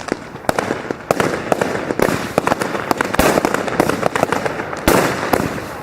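Fireworks going off in a rapid, dense run of bangs and crackling, with two louder booms about three and five seconds in.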